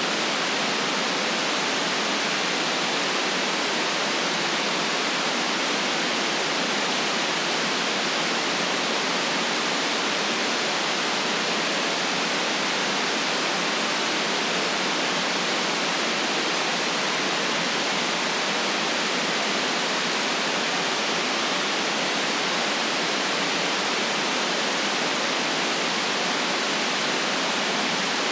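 Steady white noise: an even, unchanging hiss with almost no deep bass.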